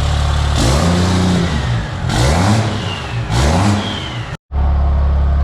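4th-gen Ram's Cummins diesel, newly fitted with a 5-inch exhaust and stack, revved about four times in quick succession, each rev rising and falling with a rush of turbo and exhaust hiss. After a brief break near the end it settles into a steady idle.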